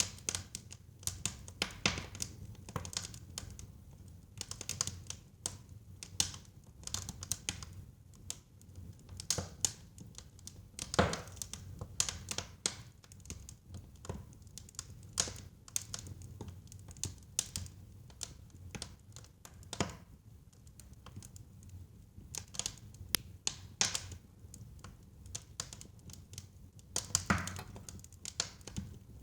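Wood fire burning in a fireplace: irregular crackles and sharp pops over a low rumble, with a few louder pops about eleven seconds in and near the end.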